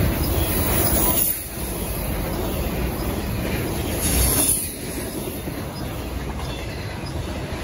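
Intermodal freight train of truck trailers on flatcars passing, its steel wheels running on the rails. The noise eases about a second in and swells briefly again around four seconds in.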